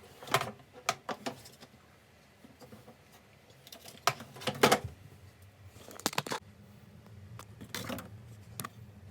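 Scattered clicks and knocks of small hard objects being handled, in irregular clusters. A low steady hum comes in about six seconds in.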